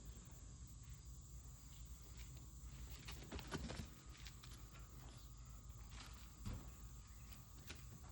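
Faint light taps and rustles of a cat pouncing on and batting around a caught bird, a little louder about three and a half seconds in and again near six and a half seconds, over a low steady hum.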